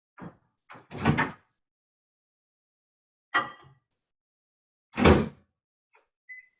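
Microwave oven door opened and shut with several clunks, the loudest about five seconds in, then a short keypad beep near the end.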